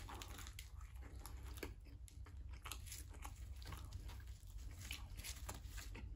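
A mouthful of garlic bread being chewed close to the microphone: faint, irregular crunches and wet mouth clicks.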